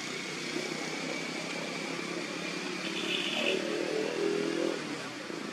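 Motor traffic running steadily, with an engine growing louder between about three and five seconds in.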